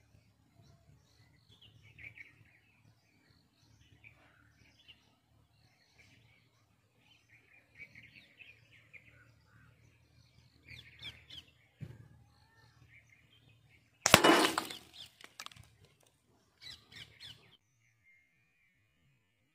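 Small birds chirping on and off. About two-thirds of the way through comes one loud, sharp CO2 pistol shot, followed a few seconds later by a few quieter clicks.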